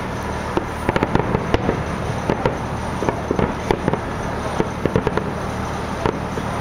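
Fireworks display: quick, irregular bangs and crackles, several a second, over a steady background din.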